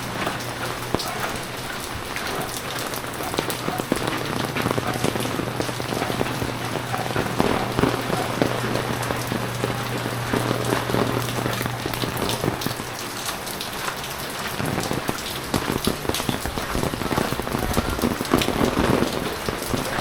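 Heavy rain falling, with many close drop strikes pattering over a steady wash. A low steady hum runs under it and stops about two-thirds of the way through.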